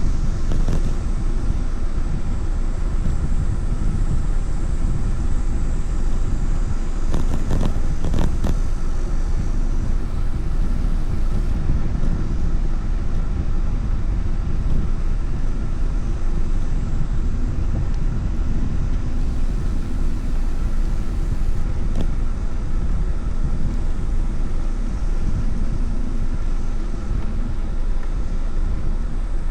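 Steady rush of wind and road noise on the microphone of a moving rider, with a few brief clicks about seven seconds in.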